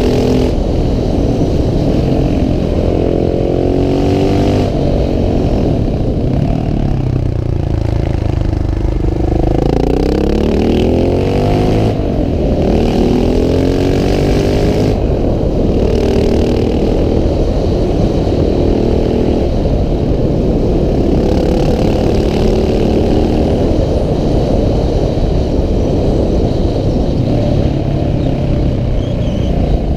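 KTM 690 SMC R supermoto's single-cylinder engine under way, its revs rising and falling again and again as it is ridden uphill through gears and bends.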